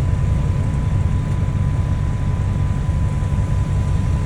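Steady low rumble of an idling diesel dump truck engine, with a faint steady high whine over it.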